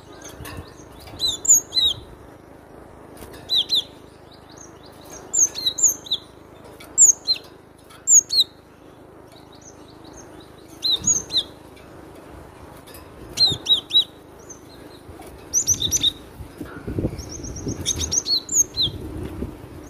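Cinereous tit (gelatik batu) singing loudly: sharp, high whistled notes in pairs and triplets, a phrase every one to two seconds, with a short buzzy trill near the end.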